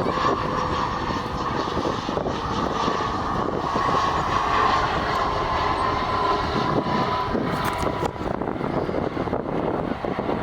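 Airliner's engines running, a broad rumble with a whine that slowly falls in pitch and fades out about eight seconds in.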